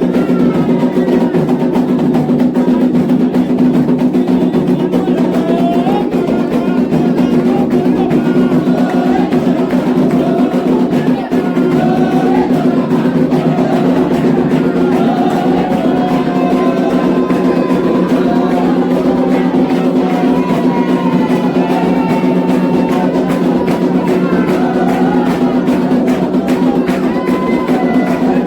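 Candomblé ritual music: atabaque hand drums beating a steady, fast rhythm while voices sing a chant to the orixás.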